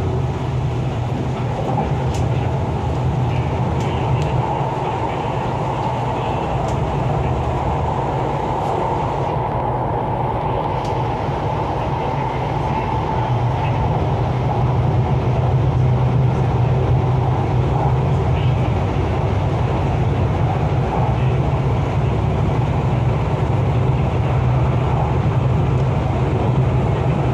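MTR East Rail line R-Train electric multiple unit running between stations: a steady rumble of wheels and running gear with a few faint clicks, growing a little louder about halfway through.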